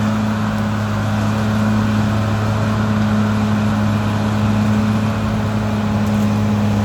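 Caterpillar D6R XL bulldozer's diesel engine running steadily with a deep, even drone.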